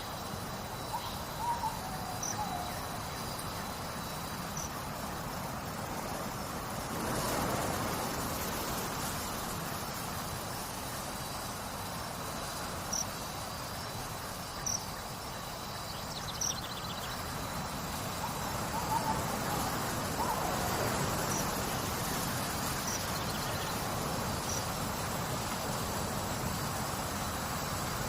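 Nature ambience: insects trill steadily, with short high chirps every second or two, over an even rush of babbling water that swells twice. A bird gives short falling whistles near the start and again about two-thirds of the way through.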